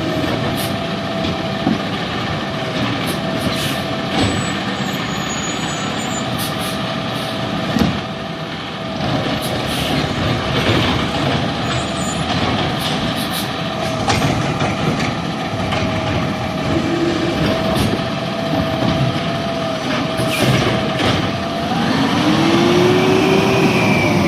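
Garbage truck running up close, its engine under a steady whine, with short hisses and clanks throughout. Near the end the engine revs up and drops back down.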